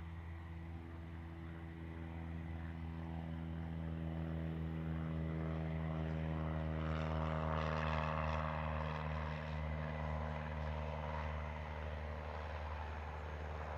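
Propeller aircraft's engine running as the plane passes, growing louder to a peak about two-thirds of the way through and then easing off a little.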